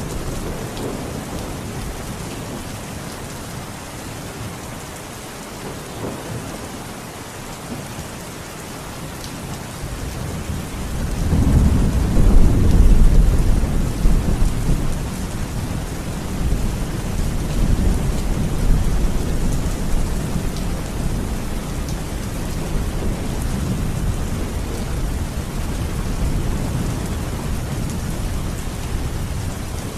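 Steady rain falling, with a deep roll of thunder building about ten seconds in, loudest a few seconds later, then rumbling on more softly.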